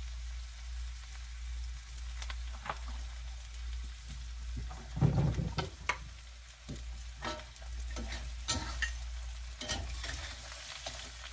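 Blue crabs, onions and peppers frying in hot oil in a wok: a steady sizzle, with several sharp knocks and clicks, the loudest about five seconds in.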